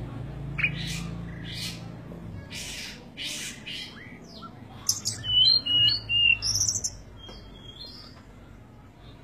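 Bird chirping and calling, loudest in a quick run of short whistled notes about five to seven seconds in. A low hum fades out in the first couple of seconds.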